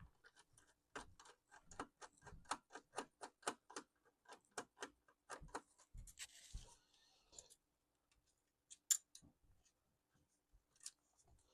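Faint, rapid, regular clicking, about four clicks a second, from a small screwdriver working at a screw in a Lenovo T430 laptop, thinning to scattered clicks, with one sharper click near the end.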